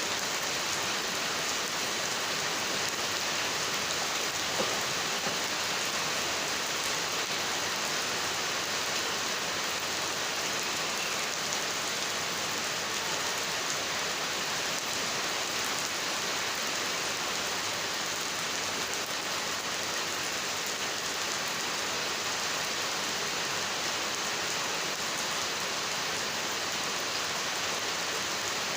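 Heavy rain falling steadily, a constant hiss of drops hitting surfaces with small drop ticks through it.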